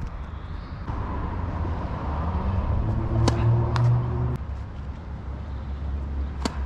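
Three sharp pops of a tennis ball being hit or bouncing on the court, over a steady low rumble. In the middle a motor vehicle's engine hums, rising in pitch, and stops abruptly a little over four seconds in.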